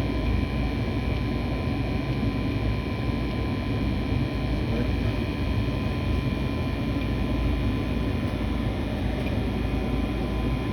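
High-efficiency residential furnace running steadily under test: a constant low rumble of the burners and blower, with a faint steady whine on top.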